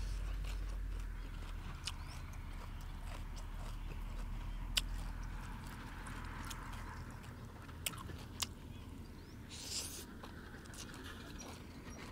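Close-up eating sounds of a man chewing Khmer rice noodles: scattered sharp wet mouth clicks and smacks, with a short hiss about ten seconds in.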